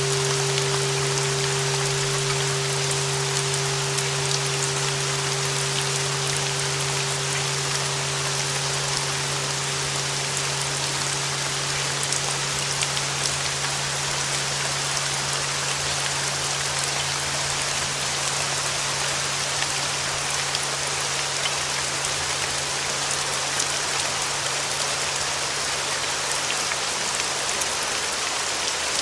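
Steady rain noise with sustained bell tones underneath: a ringing tone near 396 Hz that fades away about halfway through, over a lower steady hum that lasts throughout.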